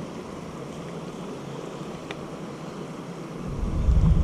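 Steady rush of running creek water. About three and a half seconds in, wind starts buffeting the microphone with a low rumble.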